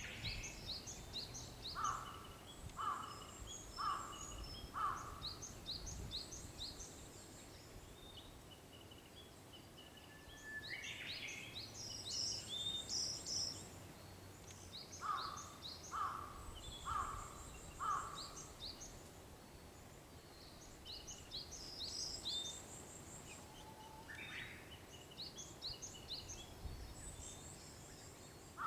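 Japanese bush warbler (uguisu) singing its whistled song, a held note rising into a quick phrase, three times. Another bird gives two runs of four loud calls about a second apart, and small birds chirp high throughout.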